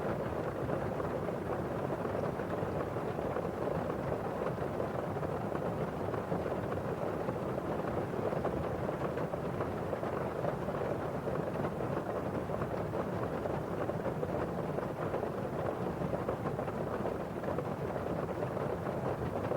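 Steady rain: drops striking a window pane and the rustle of rain falling outside.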